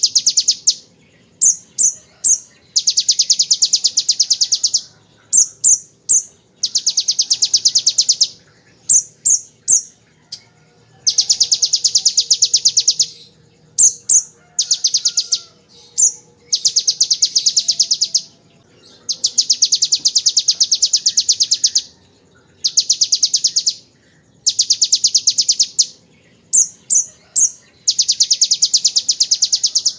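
Kolibri ninja sunbird singing: bursts of two or three short, sharp chirps alternate with long, very fast rattling trills copied from the bar-winged prinia (ciblek 'ngebren'). Each trill lasts one to two seconds, and the pattern repeats every few seconds.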